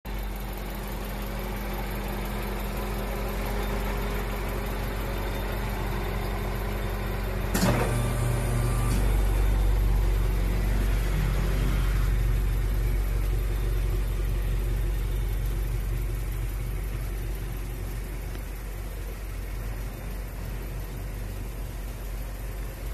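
The VW Golf 7 1.2 TSI turbocharged four-cylinder runs through an aftermarket four-tip sport muffler, idling with a steady low hum. About seven seconds in there is a sharp knock. The exhaust note then grows louder and shifts in pitch for a few seconds before settling back to idle.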